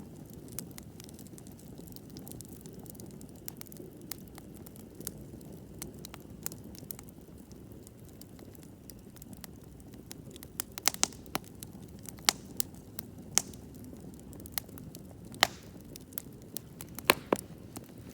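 Wood campfire burning with a steady low rush, crackling and popping. The pops are sparse at first and come thicker and sharper in the second half.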